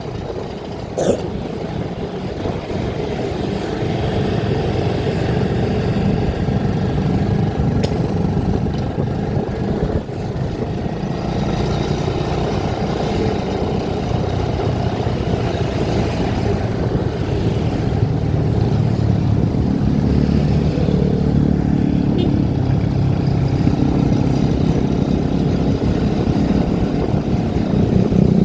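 Motor vehicle driving along a road: engine and road noise, with the engine's pitch rising and falling as speed changes. A brief knock sounds about a second in.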